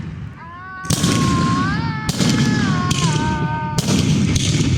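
Fireworks going off: three loud bursts about a second apart, each trailing into a long rumbling crackle.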